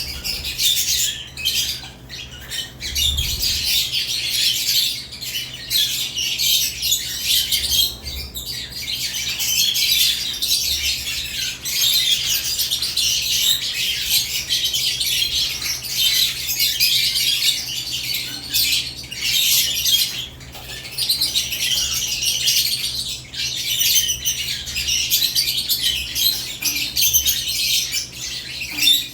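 Lovebirds in a cage chirping and squawking without pause: a dense, high-pitched chatter of many overlapping calls.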